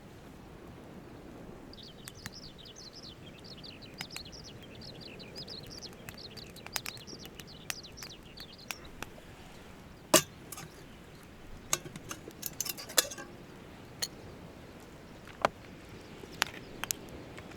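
A small bird twittering in a fast run of short high notes for several seconds. After that come scattered sharp clicks and clinks, the loudest about ten seconds in.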